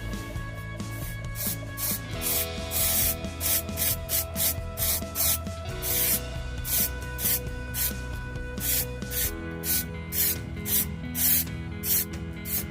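Hand scrubbing with an abrasive on an old carpentry tool, a rapid run of short, hissing rubbing strokes, about two to three a second, as the tool is cleaned up, over background music.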